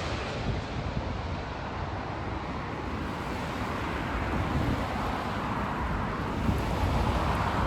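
Jet airliner roar with wind on the microphone, easing off early on and then slowly building again.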